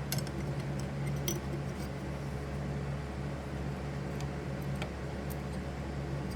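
Light clicks and taps of small pinball score reel parts being handled and fitted together, a few scattered ones, over a steady low hum.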